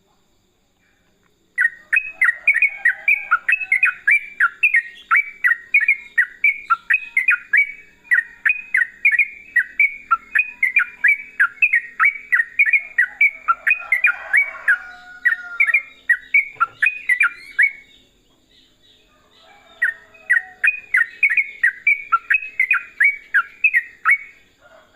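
Yellow-vented bulbul (trucukan) singing its rapid chattering 'ropel' song: fast repeated sharp notes at about four to five a second. It sings in two long runs with a short break between them.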